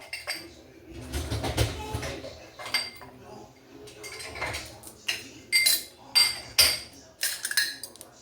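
Dishes and cutlery clinking and clattering as a dishwasher is loaded: a run of sharp knocks and clinks, some ringing briefly, that come thicker in the second half.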